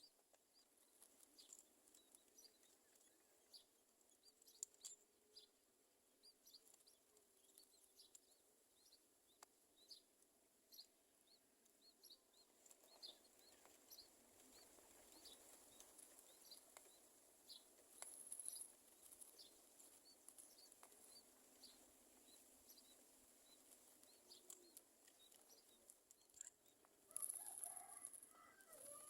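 Very faint sound at a myna nest: scattered short, high chirps and clicks, then a louder burst of bird calls near the end.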